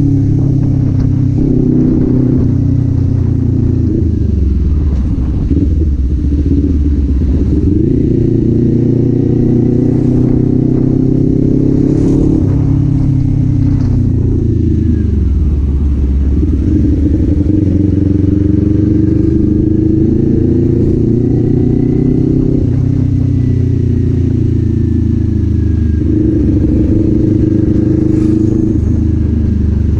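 Kawasaki Z400's parallel-twin engine and exhaust under way on a ride, the engine note climbing and falling with throttle and gear changes, dropping low twice as the bike slows before pulling again.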